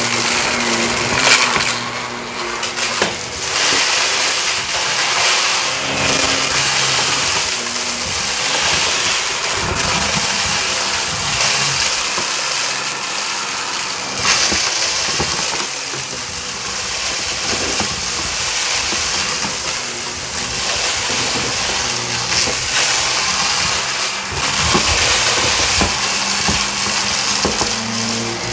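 Shark vacuum cleaner running on carpet: a steady, loud hiss of motor and suction with crackling as grit is drawn up.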